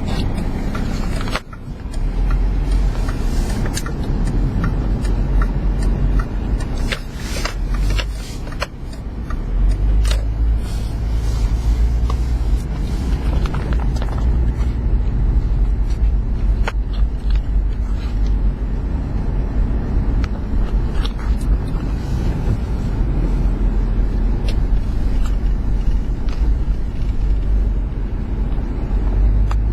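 Motor vehicle running with a steady low rumble, with scattered clicks and knocks over it. The sound drops out briefly about a second and a half in and dips again near eight seconds.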